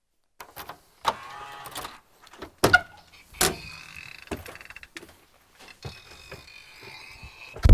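Scattered knocks and clicks of handling in and around the fire engine's cab, with a steady high whine in the last two seconds. Right at the end comes a sudden loud low rumble.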